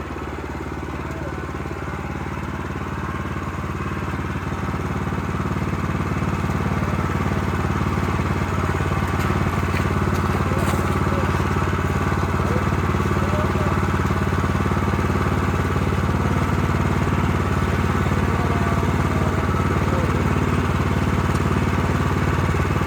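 Engine of a Bushlander HM122 portable sawmill running steadily. It gets louder over the first few seconds, then holds a constant level.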